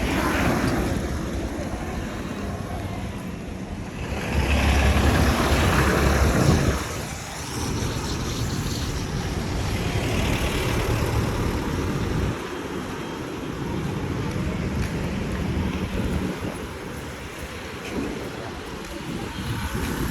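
Street traffic with wind on the microphone. A vehicle passes close about four seconds in, the loudest part, rumbling for two or three seconds before fading back into the general traffic noise.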